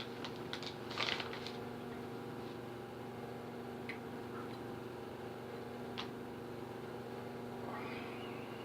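Steady low electrical or mechanical hum, with a quick cluster of small clicks in the first second or so, single clicks about four and six seconds in, and a short hiss near the end.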